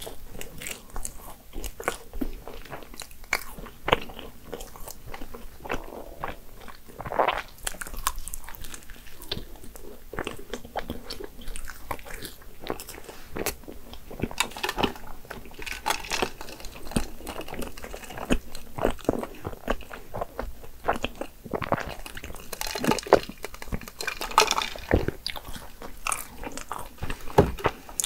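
Chewing and biting a cream-filled croissant: the flaky pastry crunches and crackles in irregular bursts throughout.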